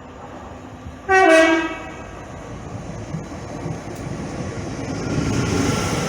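Short toot on an LNER class 801 Azuma train's horn about a second in, its pitch stepping down partway through. After it comes a rumble that builds as the train runs in alongside.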